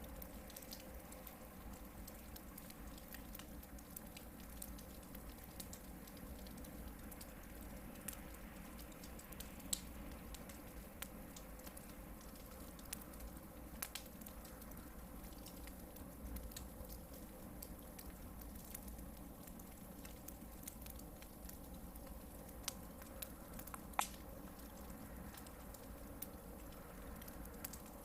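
Hardwood campfire burning with a soft steady hiss and scattered crackles and pops, a few of them sharper, the sharpest about three-quarters of the way through.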